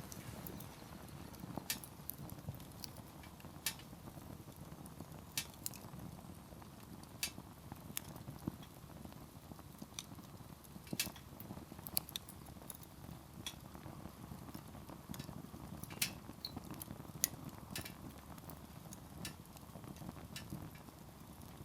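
Wood campfire burning: the firewood crackles with irregular sharp pops, a few louder than the rest, over a steady low rumble of the fire.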